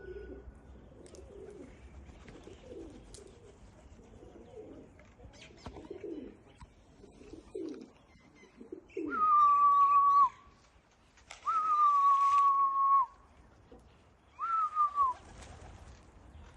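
Pigeons cooing in a run of low, bending coos. From about nine seconds in they are cut across by three loud, long whistles, steady in pitch and dipping at the end, the last one short.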